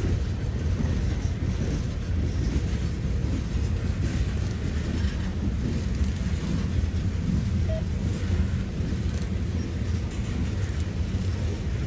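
Diesel locomotive running with a steady low rumble.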